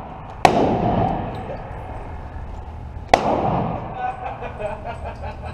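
Two gunshots at a shooting range, about two and a half seconds apart, each a sharp crack with a long echoing tail.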